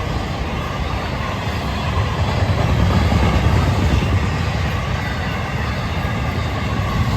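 Florida East Coast Railway freight train rolling past at trackside, a steady low rumble of the train with no breaks.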